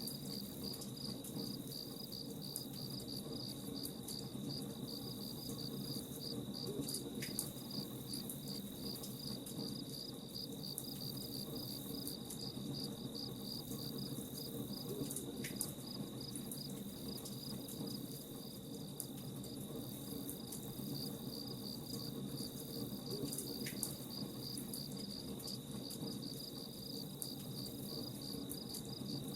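Crickets chirping in a steady, even rhythm over a low rumble, with the scattered small crackles of a campfire.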